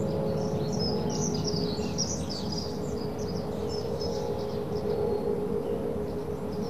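Many small birds chirping in quick, overlapping calls, over a steady hum.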